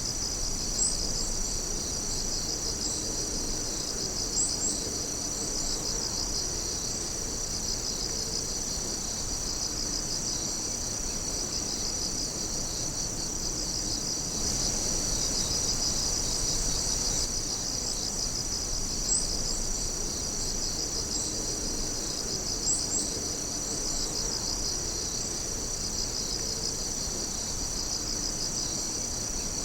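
A dense chorus of night insects trilling steadily in high, pulsing tones. A few brief, sharper, higher chirps stand out now and then, about four times.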